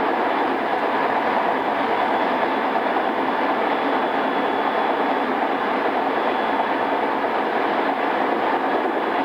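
Interior running sound of a JR East E217 series commuter train's motor car, unrenewed, at speed: a steady rumble of wheels on rail, with a faint high thin tone for a few seconds partway through.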